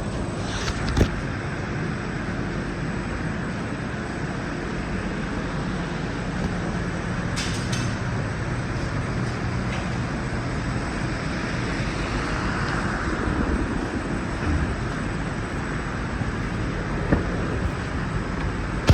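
2006 GMC Yukon's 5.3-litre V8 engine idling steadily, with a few faint clicks.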